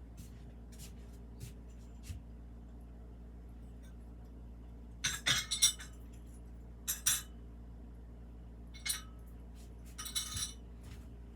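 Small glazed ceramic pieces clinking against each other as they are handled and sorted, in four short clusters of clinks with a few single ticks between, over a low steady hum.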